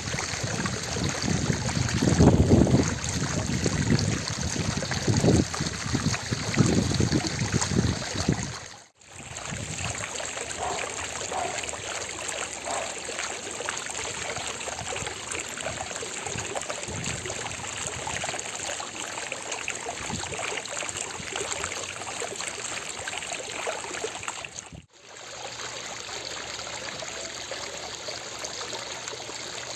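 Water fountain splashing continuously, a steady rushing hiss of falling water. There is a heavier low rumble in the first third, and the sound dips out briefly twice, about nine seconds in and again about twenty-five seconds in.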